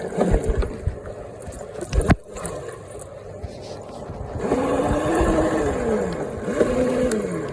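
Electric dirt bike's motor whining, its pitch rising and falling twice as it speeds up and slows, over a rough rumble. A sharp knock about two seconds in.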